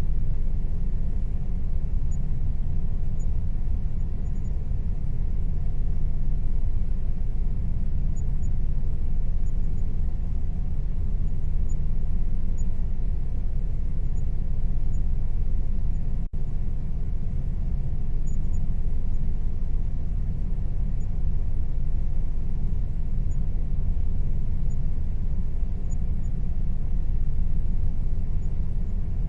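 Air conditioner running steadily, a low rumbling hum with faint steady tones above it. It cuts out for an instant about sixteen seconds in.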